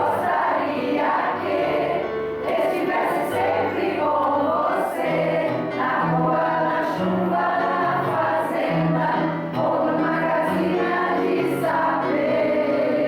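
A choir singing a song, with low notes moving underneath the voices.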